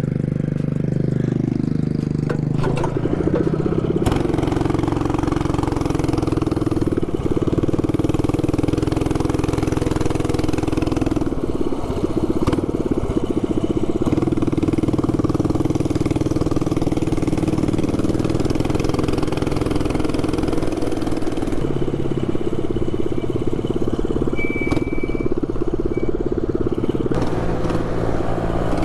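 Stock 224cc single-cylinder mini bike engine with a short straight-pipe exhaust and aftermarket carburettor, revving up over the first couple of seconds, then running at steady high revs while riding.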